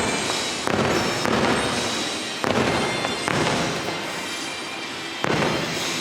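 Fireworks bursting: four sudden booms with continuous crackling between them.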